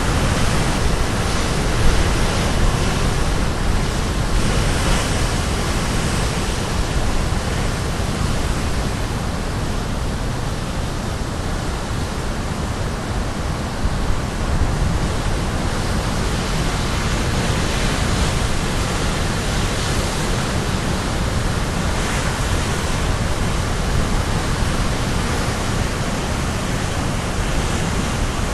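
Caribbean Sea surf crashing on the shore: a dense, continuous wash of breaking waves, strongest in the low rumble, with gentle swells in the hiss every few seconds.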